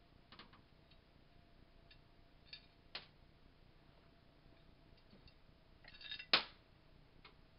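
Small metal parts and tools being handled on a work surface: a few light clicks and clinks, then a short rustle and one sharp, louder click about six seconds in.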